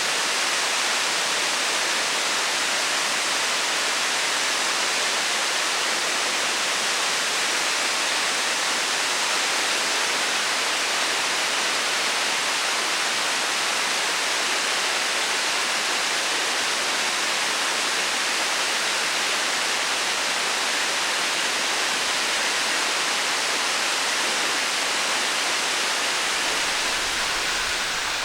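Waterfall plunging onto rock and into its pool: a steady, dense rush of falling water that eases slightly near the end.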